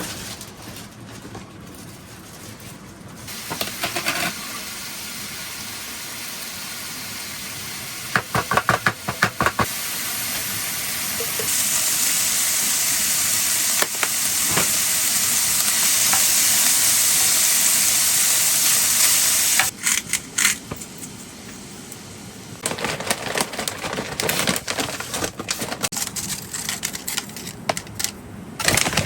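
Food sizzling and frying in a hot pan, the hiss swelling to its loudest in the middle and then cutting off, with a quick run of clatters from a utensil stirring the pan.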